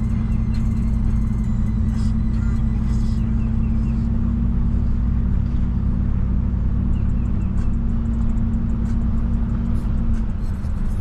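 A vehicle engine running at a steady speed, a low, even drone with no change in pitch, easing slightly near the end.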